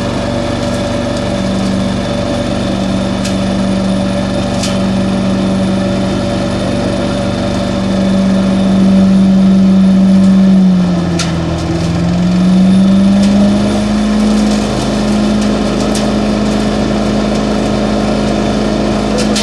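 Engine of an industrial street-cleaning vacuum running steadily. Its pitch sags briefly about eleven seconds in, then picks back up and holds a little higher. A few sharp ticks stand out now and then.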